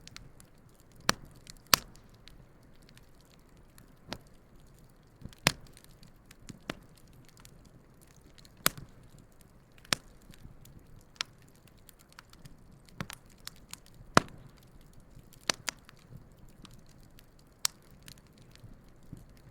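Wood campfire burning, with irregular sharp crackles and pops, about a dozen, over a faint low hiss of the flames.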